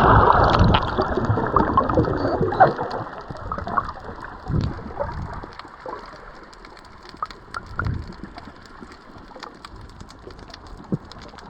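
Water sloshing and splashing against the camera during a snorkel swim, loudest in the first few seconds, then quieter with scattered sharp clicks and a few soft thumps.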